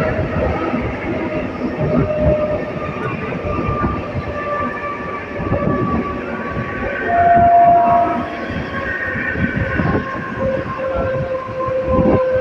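Train running on rails: irregular clatter and rattle, with drawn-out high squeals coming and going, one louder about halfway through.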